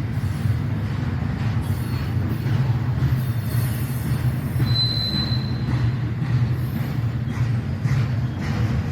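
Intermodal freight train rolling past with a steady low rumble, and a brief high wheel squeal about halfway through.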